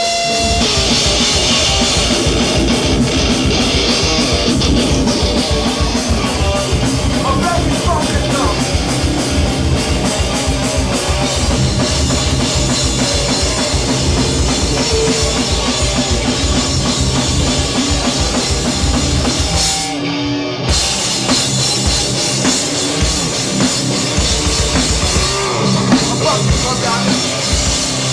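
Hardcore punk band playing live and loud: distorted electric guitars, bass and fast-hit drum kit. About twenty seconds in the band stops for a moment, then crashes back in.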